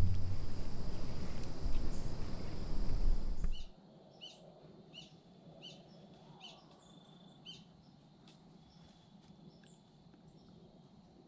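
A loud rushing noise cuts off suddenly a few seconds in. It leaves quiet outdoor ambience in which a bird gives about six short, high chirps, each under a second apart, then falls quiet.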